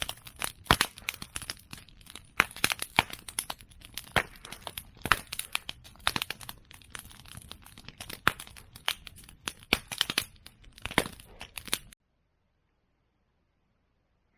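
Bonfire of cut Simon bamboo and chestnut prunings crackling, with dense irregular snaps and sharper pops from the burning bamboo. The sound cuts off abruptly near the end.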